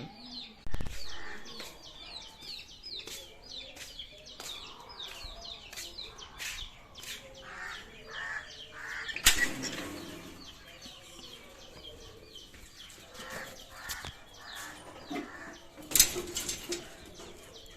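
A flock of small caged aviary birds chirping continuously in many quick, high, falling chirps. Sharp loud knocks stand out about a second in, around nine seconds in and around sixteen seconds in.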